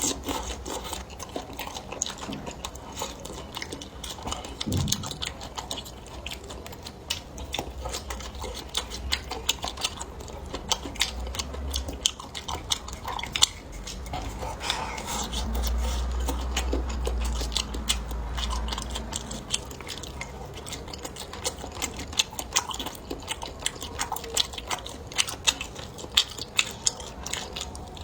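Close-miked chewing and biting of food, a steady run of irregular small clicks and smacks from the mouth.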